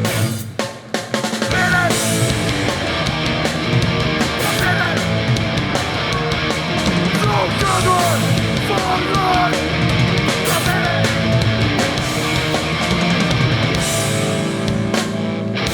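Hardcore punk band playing live and loud: distorted guitars, bass and drums, with a few abrupt stop-start hits in the first second before the full band drives on.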